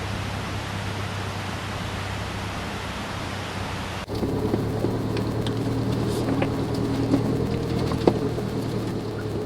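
Suzuki Jimny JB23W's 660 cc three-cylinder turbo engine droning low as it drives a gravel forest road, first under a steady rushing noise. About four seconds in the sound changes abruptly to the engine's hum with scattered small clicks and knocks, like gravel and jolts on the rough road.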